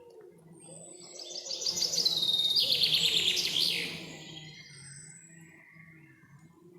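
A songbird sings one loud, rapid phrase of high notes lasting about two seconds, ending in a few falling notes. Fainter thin whistles from other birds come before and after it.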